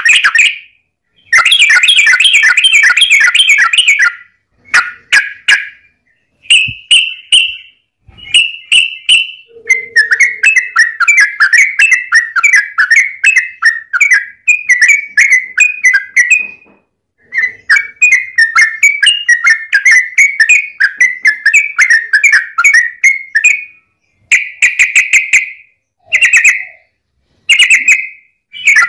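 Yellow-vented bulbul (trucukan) singing in loud, rapid, bubbling chattering phrases, with several short breaks between them; the longest runs of song last six to seven seconds.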